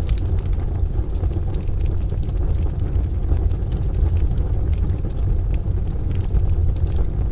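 Crackling wood-stove fire: scattered sharp pops and crackles over a steady low rumble.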